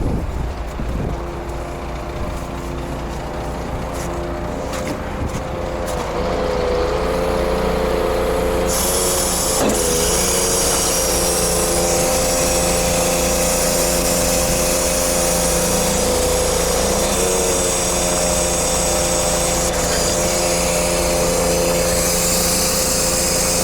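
Scania truck running with a steady mechanical whine that grows louder about six seconds in, joined by a steady hiss from about nine seconds in.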